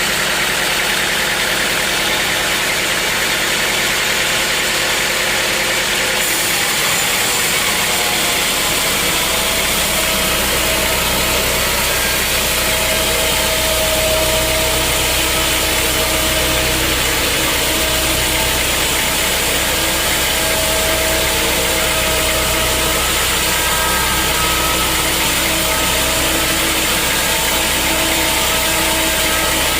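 Sawmill machinery running steadily, a loud mechanical noise with a few steady tones. About seven seconds in, a deeper engine hum comes in underneath and carries on.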